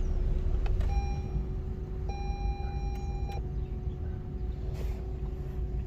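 Two electronic beeps, a short one about a second in and a longer one lasting just over a second, with a few sharp clicks, over a steady low rumble and a steady hum.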